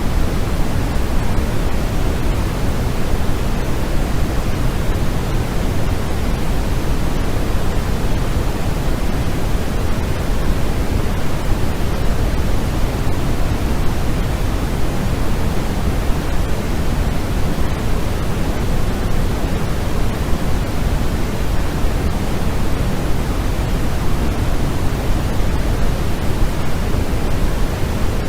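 Continuous sleep noise, a steady, unchanging rushing hiss, heavier in the bass than in the treble.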